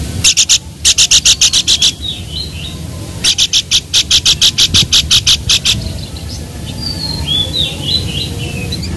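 Babbler (pelanduk) calling: two runs of loud, sharp repeated notes, about seven a second, the first near the start and a longer one about three seconds in, with softer high chirps between and after. A steady low rumble runs underneath.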